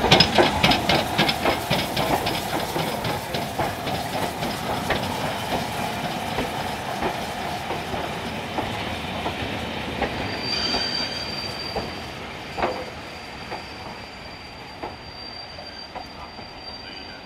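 Steam-hauled train of passenger coaches rolling along the platform, wheels clicking rapidly over the rail joints and slowing down. About ten seconds in, a steady high brake squeal starts and holds as the train draws to a stand.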